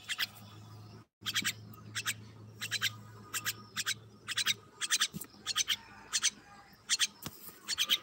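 Bird chirping: a steady run of short, sharp calls, about two a second, with a low hum under the first half.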